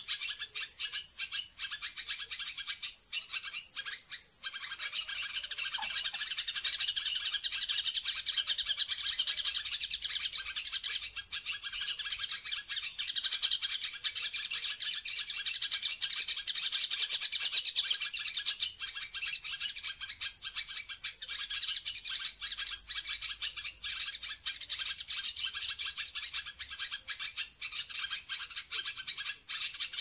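Dense, continuous high-pitched chirping and chatter of birds in forest undergrowth, swelling a little in loudness and easing again, over a faint steady high whine.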